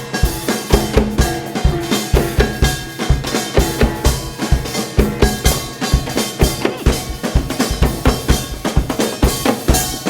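Percussion-driven ensemble music: fast, steady drum strikes with held melodic notes over them.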